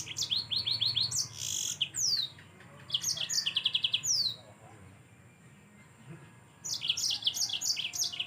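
Mozambique canary (yellow-fronted canary) singing a fast, high-pitched song of rapid trills and quick down-slurred notes. It pauses for about two seconds in the middle, then starts again.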